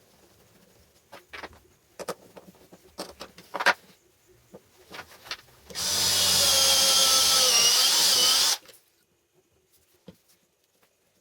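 A few light knocks and clicks, then a power tool runs for about three seconds with a whine that dips slightly in pitch, and stops abruptly.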